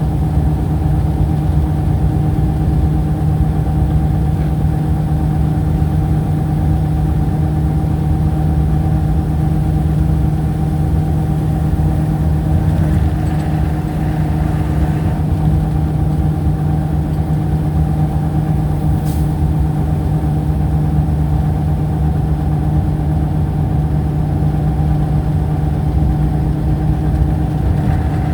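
A steady mechanical hum, like an engine or motor running at a constant speed, with a low drone that does not change.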